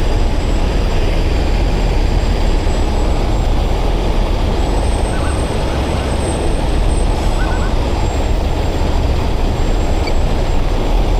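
Heavy-duty tow trucks' diesel engines running steadily, a dense low rumble with a faint high whine over it.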